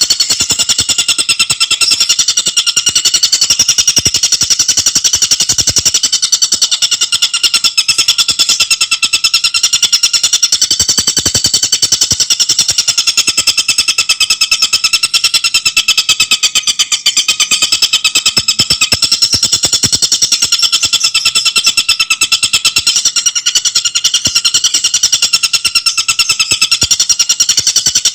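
A tengkek buto calling in a loud, continuous high-pitched trill of very rapid notes, running without a break.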